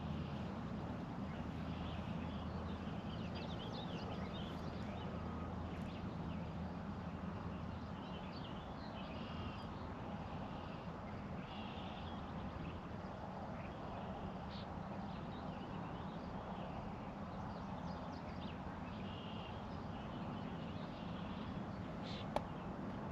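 Birds calling with short scattered chirps over a steady outdoor hiss, with a low hum that fades out about eight seconds in and a single sharp click near the end.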